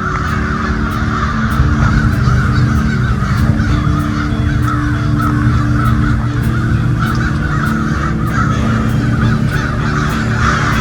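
A large flock of crows cawing all at once, a dense overlapping chorus without a break.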